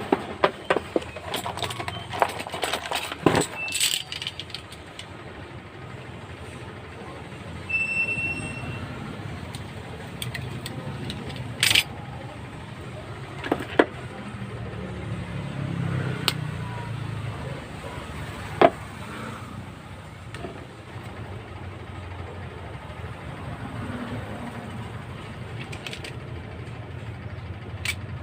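Clicks and light metallic clatter from handling an electric fan's parts during repair, busiest in the first few seconds, then single sharp clicks now and then, over a steady low rumble. A short high beep sounds about eight seconds in.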